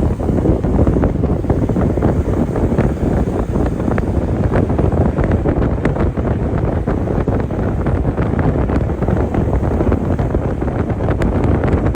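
Strong wind buffeting the microphone: a loud, steady rumble with crackles through it.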